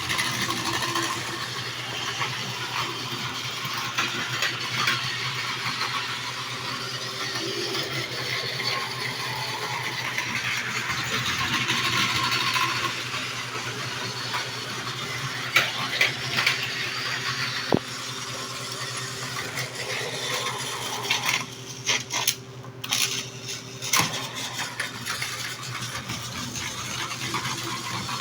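Osaka Metro 400 series electric train running: a steady low motor hum under a wide rushing rail and running noise, with scattered clicks and rattles. The noise turns choppy for a few seconds near the end.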